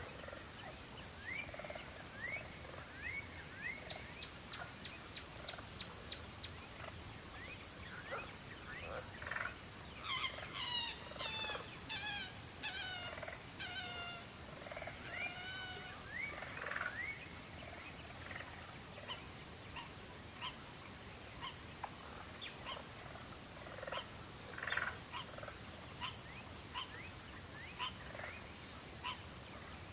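Crickets trilling in a steady, dense, high-pitched chorus at twilight, one of them pulsing until about two-thirds of the way through. Birds call over it in short sweeping chirps, busiest in the middle.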